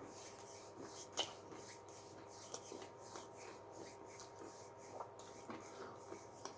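Faint crunching and mouth sounds of someone chewing a bite of a fried chicken sandwich, irregular small crackles with a sharper click about a second in.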